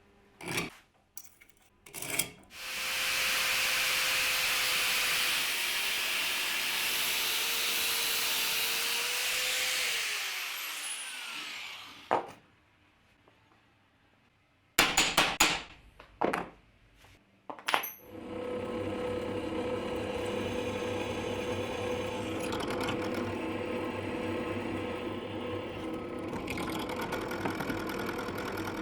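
Workshop power tool running on wood for about eight seconds, then spinning down. A few sharp knocks follow, then a motor-driven machine starts and runs steadily with a constant hum.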